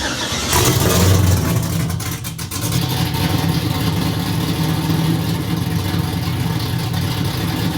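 The freshly built race engine of a pro drift car running loudly on one of its first starts. It is briefly louder about a second in, then settles into a steady run.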